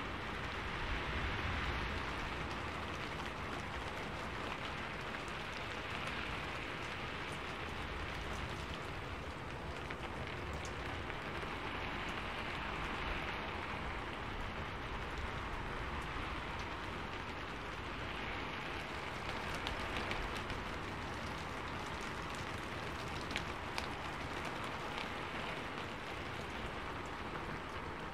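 Steady rainfall: an even hiss with scattered taps of single drops.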